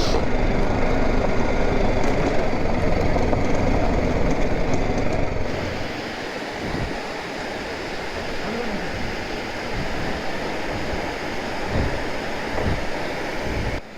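Motorcycle riding noise from a BMW G 310 GS single-cylinder engine, with road and wind rumble on a rough track. About five seconds in it gives way to a quieter, steady rushing noise.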